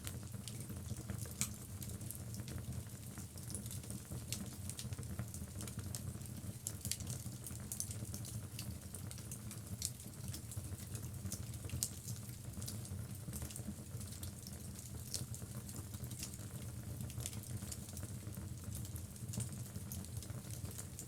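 Wood logs burning in a fireplace: a steady low rumble of flame with frequent sharp crackles and pops from the burning wood.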